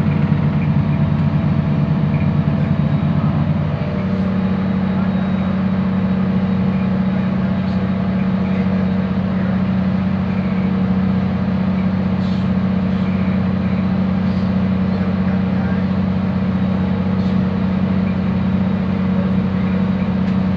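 Cabin noise of a diesel multiple-unit passenger train under way: a steady low engine drone with running and rushing noise over it. About four seconds in, the drone shifts to a slightly higher, smoother note.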